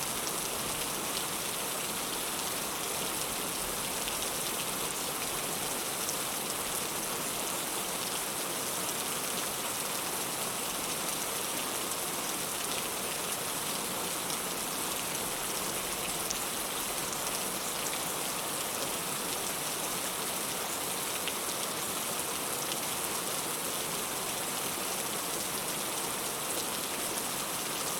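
Heavy rain falling steadily: a dense, even wash of rain noise with scattered drop ticks.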